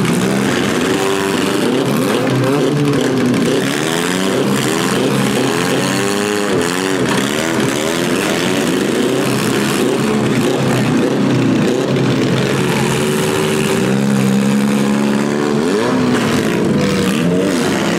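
Several demolition derby cars' engines revving together, their pitches repeatedly rising and falling.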